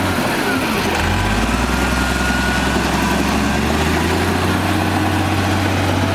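Komatsu D58E bulldozer's diesel engine running steadily, its low note dipping and shifting about a second in as the load changes.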